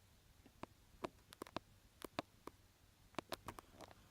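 Faint, irregular small clicks and light taps against near silence: handling noise.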